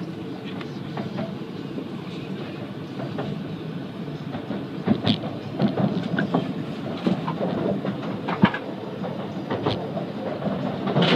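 Jōetsu Shinkansen train running, heard inside the passenger cabin: a steady low rumble. From about five seconds in, sharp irregular clicks and knocks from the wheels on the track join the rumble.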